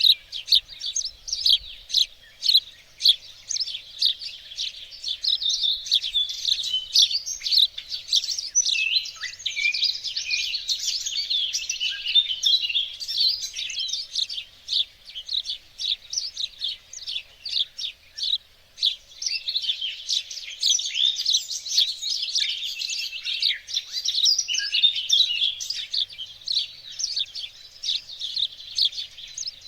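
Several small songbirds singing and chirping together, a dense chorus of rapid high-pitched chirps and trills that thickens into continuous twittering twice and then thins back to separate chirps.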